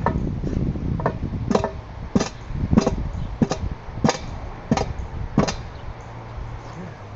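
About nine hammer blows, evenly paced roughly two-thirds of a second apart, while a tire is mounted on its rim by hand.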